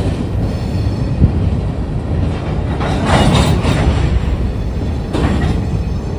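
A train rolling past, its railcars making a steady heavy rumble on the track that swells twice.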